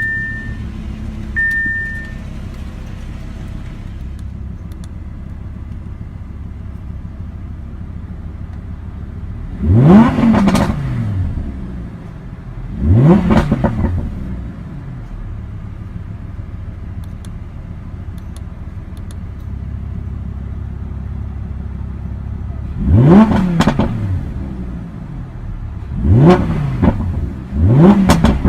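2017 Audi R8 V10 Plus's 5.2-litre naturally aspirated V10 idling just after a cold push-button start, blipped five times: each rev climbs sharply and falls straight back to idle, twice around the tenth to thirteenth second and three times near the end. A few short electronic beeps sound at the very start.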